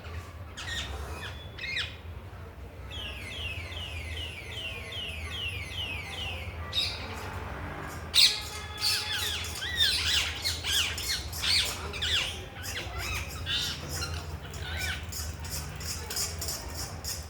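Parrot squawking and chattering. It gives a quick run of short falling chirps, about three a second, then, about eight seconds in, bursts into loud harsh squawks and calls.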